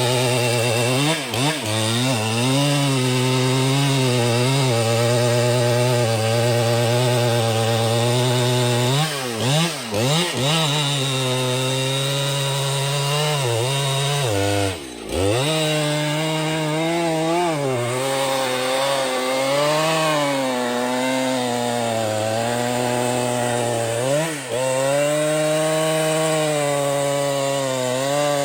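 Two-stroke chainsaw running at high speed while cutting through a tree trunk. Its engine pitch wavers under the load and sags briefly a few times, most deeply about halfway through, as the throttle eases and picks up again.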